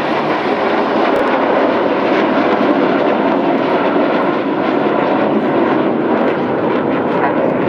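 Red Arrows' BAE Hawk jets flying overhead as a formation, a loud, steady jet-engine noise that holds throughout.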